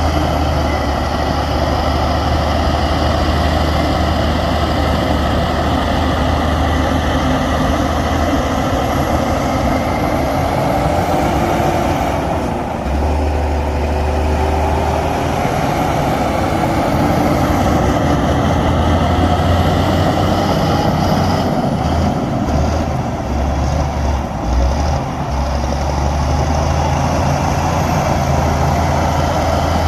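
Heavy diesel earthmoving machinery engine running steadily with a deep, continuous hum. The low end dips briefly about twelve seconds in and turns uneven for a few seconds in the later part.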